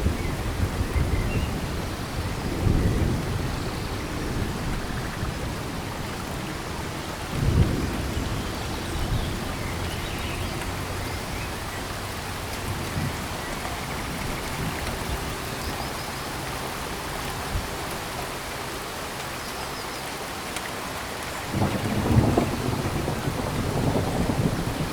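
Steady rain falling in a tropical forest, with low rumbles of thunder about 2 seconds in, again about 7 seconds in, and a longer one starting near the end.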